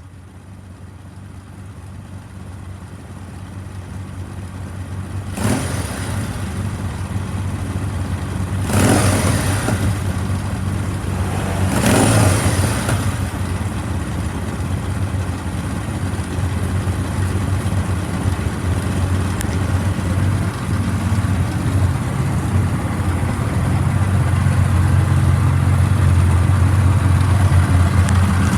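Kawasaki W650's air-cooled parallel-twin engine idling, blipped three times about three seconds apart with quick rises and falls in revs, then settling back to a steady idle that grows louder towards the end.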